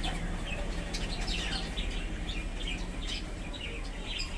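Birds chirping: a quick run of many short, high notes, starting about a second in.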